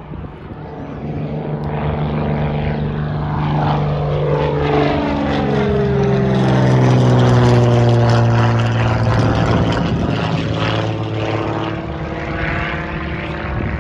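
Propeller airplane making a low, fast pass: the engine and propeller drone grows louder as it approaches, drops in pitch as it goes by about five seconds in, is loudest just after, then eases off slightly as it moves away.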